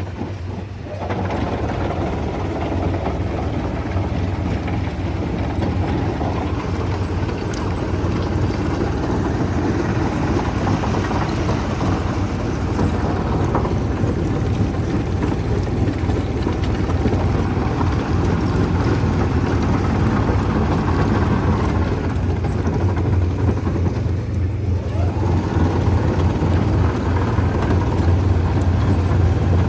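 Heavy stone-crushing machinery running steadily: a deep engine hum under a continuous mechanical rumble. It thins briefly about three-quarters of the way through, then grows slightly louder.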